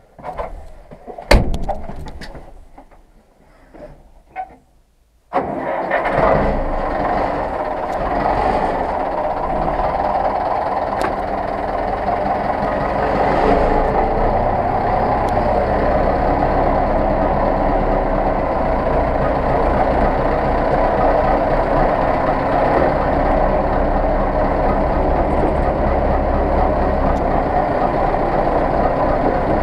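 A few knocks and one loud bang, then about five seconds in the Zetor 6911 tractor's four-cylinder diesel engine starts up abruptly and runs steadily.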